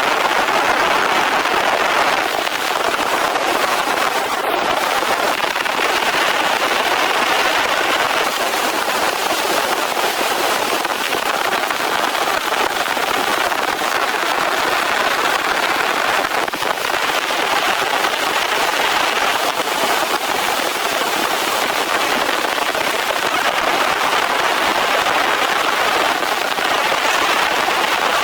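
Heavy rain falling steadily: a dense, even patter of drops with a fine crackle.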